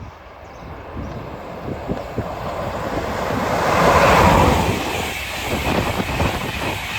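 A train approaching and passing through the station, a rushing rumble that builds to its loudest about four seconds in and then carries on steadily as it goes by.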